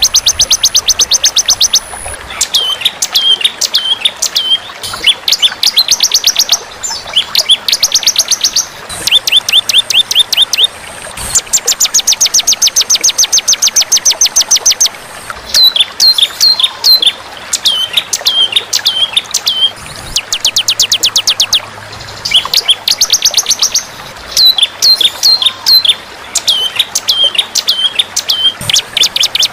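Recorded songbird calls of a masteran training track for cage birds: runs of very rapid, evenly repeated high chip notes lasting a second or two, alternating with groups of short down-slurred, hooked whistles, repeated over and over.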